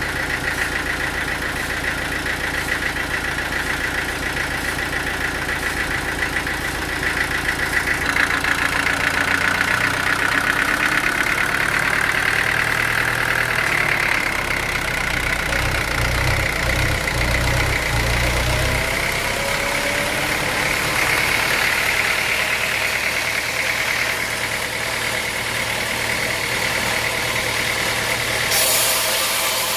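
Sawmill engine running steadily, its note and load shifting about eight seconds in. A hiss of saw cutting into wood starts just before the end.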